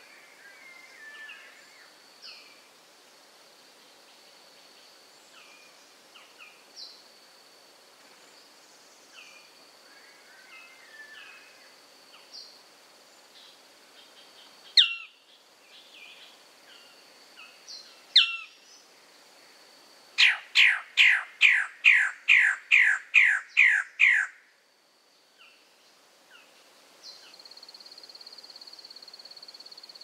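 Forest bird calling: two loud, sharp single notes a few seconds apart, then a fast series of about ten loud down-slurred notes, under a steady high insect drone. A buzzing insect starts near the end.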